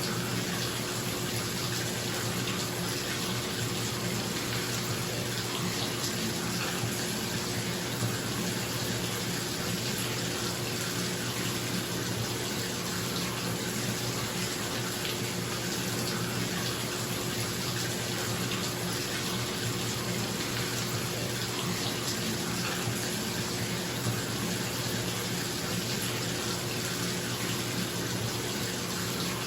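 Bathtub tap running steadily into the tub in a steady rushing flow, with a bathroom exhaust fan humming underneath.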